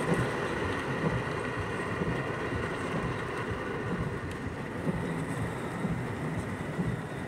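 Heavy downpour: a steady rush of pouring rain, with a low rumble underneath.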